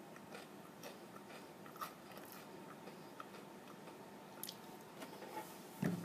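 Faint crunching and chewing of a potato chip, a scatter of small crisp crunches with a louder one near the end.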